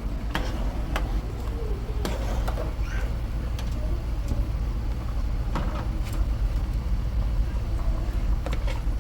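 A steady low rumble with scattered sharp clicks and knocks, about one every second or so.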